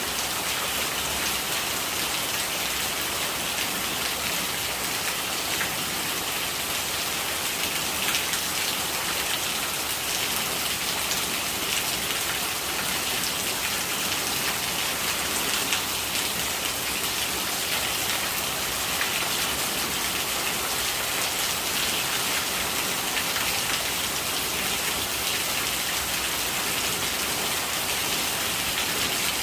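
Steady rain falling: an even hiss of countless small drop impacts, holding the same level throughout.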